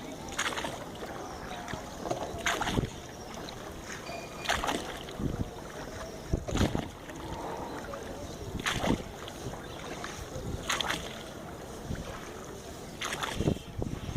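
Oars of a rowing boat stroking through the river water, a splash and knock about every two seconds, over a steady wash of wind and water.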